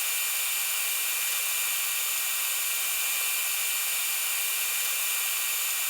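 TIG welding arc on stainless steel tubing: a steady, even hiss with a faint high whine, unchanging throughout.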